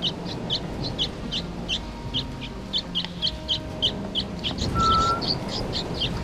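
Young birds (chicks) chirping over and over, short high chirps at an even pace of about three a second.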